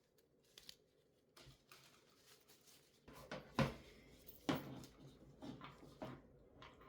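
Handling noises from PC parts being worked on by hand: a string of light clicks and knocks, with two louder knocks a second apart about halfway through.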